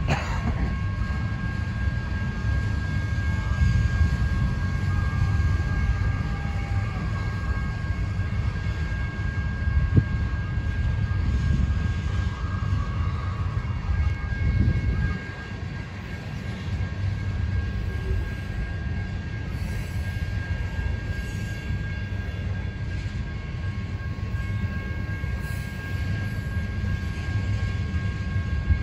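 Train rolling by: a steady rumble of wheels on rail with a thin, steady high tone above it, and a single sharp knock about ten seconds in.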